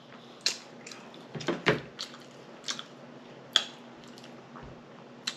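A person chewing food close to the microphone, with irregular wet smacking clicks from the lips and mouth.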